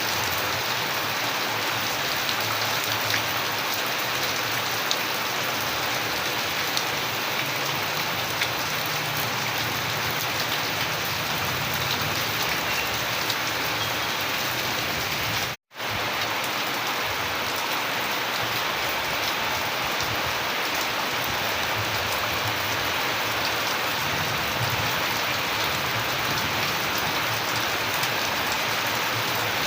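Steady rain falling, an even hiss with occasional sharper drops ticking through it. The sound cuts out completely for a split second about halfway through, then carries on unchanged.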